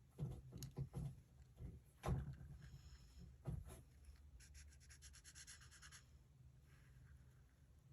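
Felt-tip alcohol marker scratching on paper in quick strokes, after a few knocks and taps, as of markers being handled and set down on a table.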